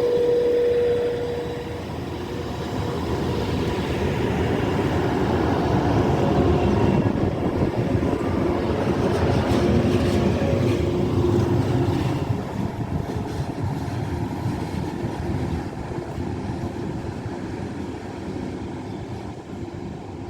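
A train passing through a railway station: a steady tone sounds for the first second and a half, then the rumble of wheels on rails builds, is loudest in the middle, and fades away over the last several seconds.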